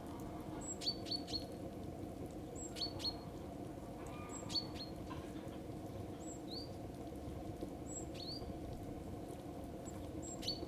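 Small songbird calling over and over, a short high chirp followed by a few lower notes, about every two seconds, over a steady low hum.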